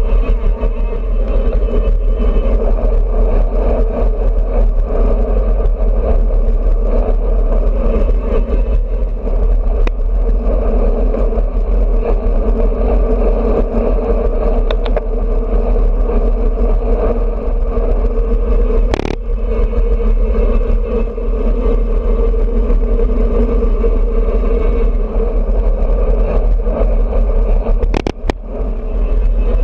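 Steady wind rush and road noise on a bicycle-mounted action camera's microphone during a road ride. A sharp knock comes about two-thirds of the way through, and a couple of quick clicks come near the end.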